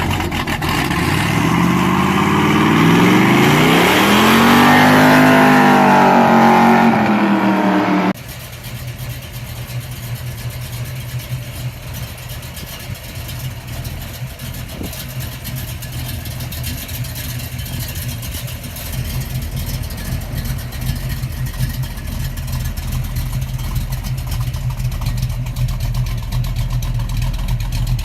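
Car engine revving, its pitch climbing and falling for about eight seconds, then a sudden cut to a steady low engine rumble at idle.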